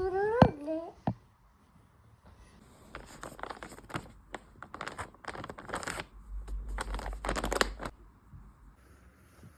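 A short pitched call rising in pitch at the start, then a run of quick rustles, tearing and light clicks of things being handled, with a low hum for a couple of seconds near the end.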